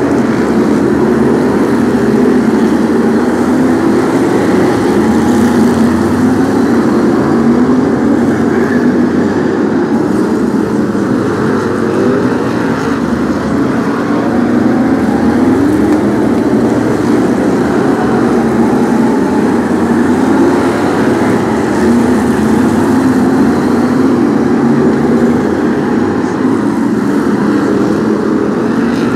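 A pack of Brisca F1 stock cars racing, their V8 engines running together in a loud, continuous drone whose pitch keeps rising and falling as the cars accelerate and back off round the track.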